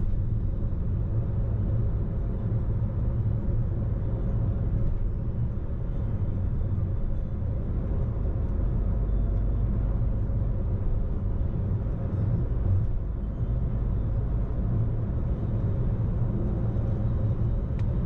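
Car on the move, a steady low rumble of engine and road noise heard from inside the cabin.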